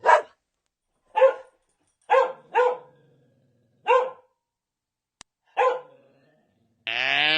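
A dog barking, six short single barks at uneven intervals. Near the end a longer, drawn-out animal call begins.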